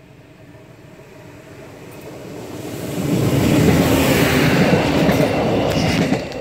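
Regional passenger train with red coaches approaching along the track and passing close by. Its rolling noise builds over about three seconds, stays loud while the coaches go past, then drops sharply near the end.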